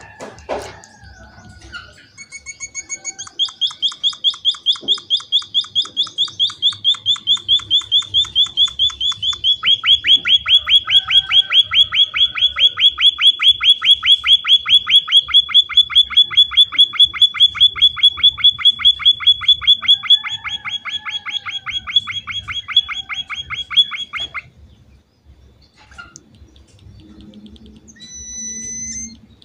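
Emprit (munia-type finch) calling in a long run of rapid, evenly repeated high notes, about five a second, for some twenty seconds, growing louder about halfway through and then stopping suddenly. A few short chirps follow near the end.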